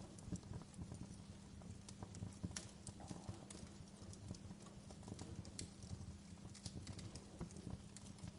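Wood fire crackling in a fireplace: irregular sharp pops and snaps over a low, steady background sound.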